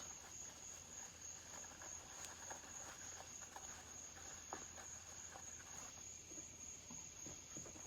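Faint handling noise at a workbench, a few light taps and rustles, under a steady high-pitched whine.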